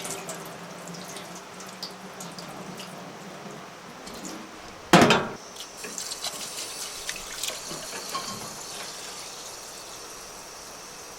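Water trickling and splashing, as when water is poured and swished in a pot, with one sudden loud splash about five seconds in.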